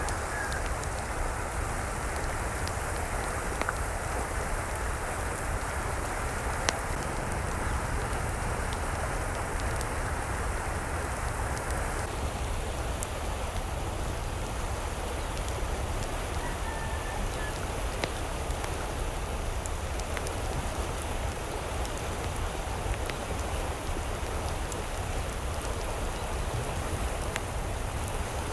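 Steady rushing water noise with scattered sharp ticks, and a couple of faint short calls, one near the start and one about two-thirds of the way through.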